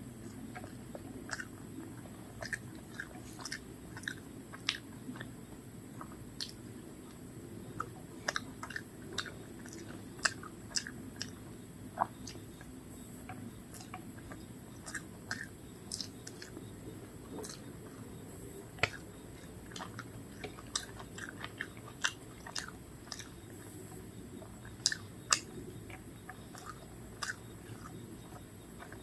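Close-miked chewing and biting of a home-style meal of rice, dal and fried vegetables and fish, with many short, irregular wet mouth clicks and smacks over a steady background hiss.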